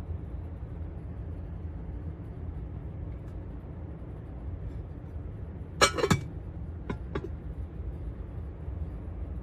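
Ceramic pasta bowls clinking: a quick cluster of ringing clinks about six seconds in, then two lighter taps about a second later. A steady low hum runs underneath.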